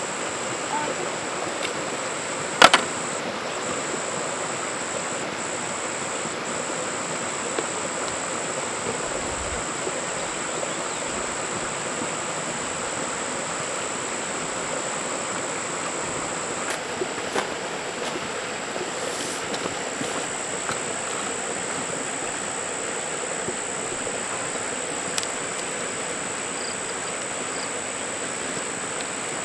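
Steady rain falling, an even hiss, with insects droning at one high pitch throughout. A sharp click or knock stands out about three seconds in.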